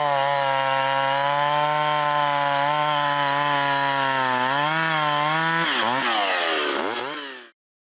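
Vintage Stihl two-stroke chainsaw running at a steady high pitch while cutting wood. Near the end its pitch falls and rises a few times, then the sound cuts off suddenly.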